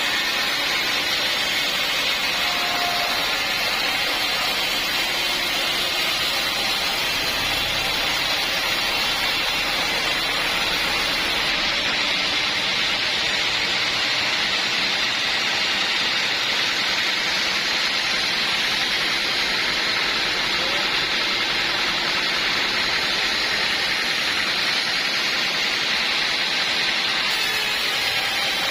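Sawmill machinery running: a loud, steady, even rushing noise that holds unbroken throughout.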